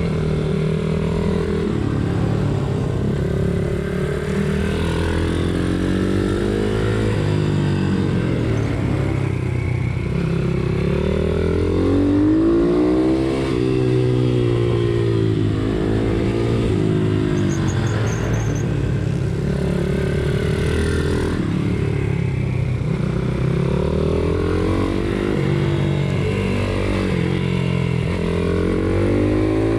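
Pit bike's small single-cylinder four-stroke engine under race riding, revving up and dropping back again and again, its pitch rising and falling every few seconds.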